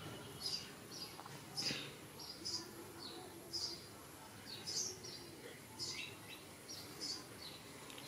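Small birds chirping in the background: a run of short, high chirps, about one or two a second.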